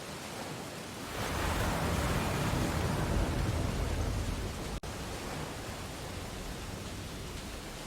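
Ocean waves on a beach: a wave surges in about a second in and washes back, leaving a steady hiss of surf. The sound cuts out for an instant near the middle.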